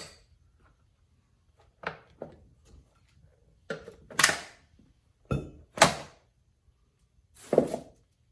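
Short plastic knocks and rattles, about seven spread out with pauses between, as a chainsaw's top cover and air filter are handled and taken off.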